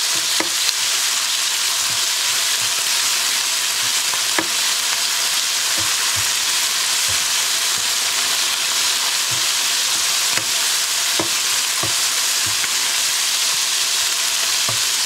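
Chicken strips sizzling in hot oil in a nonstick wok on high heat, with soy sauce and sambal oelek in the pan. A plastic slotted spatula stirs them, and its scrapes and taps on the wok come through as short knocks every second or two over the steady sizzle.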